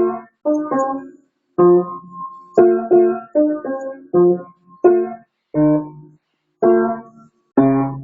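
Piano or keyboard played by hand: about ten separate notes and chords struck one after another at an uneven pace, each cut off short.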